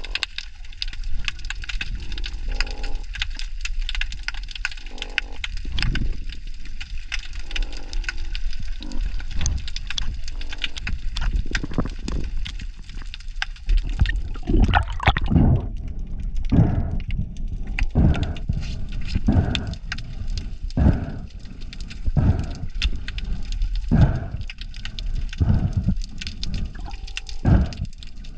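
Underwater sound of unknown origin: a constant crackle, with several short croaking calls in the first half. From about halfway through, heavy low thumps come roughly every second and a half.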